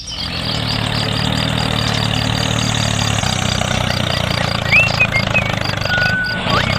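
Small engine of a DIY mini tractor running steadily, with a fast regular ticking about four times a second. A few short whistled chirps come in near the end.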